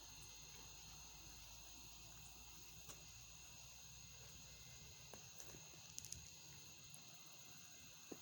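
Near silence with a faint, steady insect chorus and a few soft clicks.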